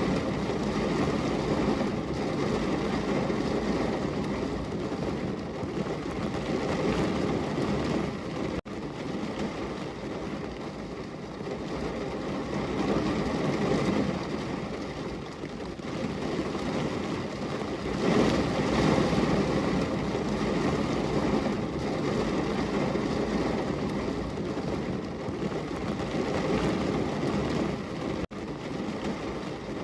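Heavy downpour of rain on a window: a dense, steady rushing hiss that swells and eases every few seconds, and cuts out for an instant twice.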